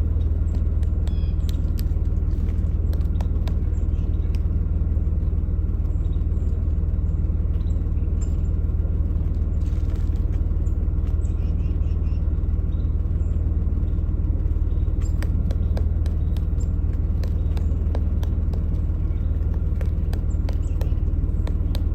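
Pileated woodpecker chiselling into wood, giving sharp taps at an uneven pace over a loud steady low rumble. A few faint high chirps come and go.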